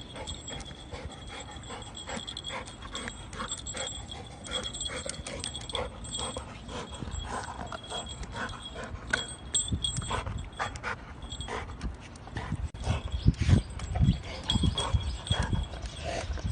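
A dog panting while it chews and tugs at a rubber chew toy, with many short rubbery clicks and heavier knocks about thirteen to fifteen seconds in.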